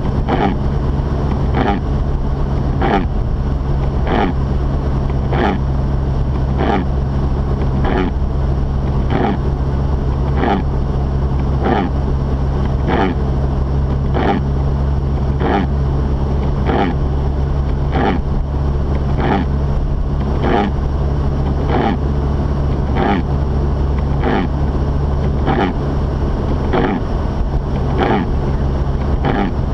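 Inside a Mazda RX-8's cabin while driving: a steady low drone of the rotary engine and road. Over it, windshield wipers sweep across the glass at an even pace, about once a second, clearing snow.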